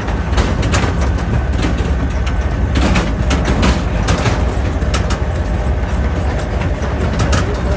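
Tractor engine running with a steady low drone, with frequent short rattles and knocks.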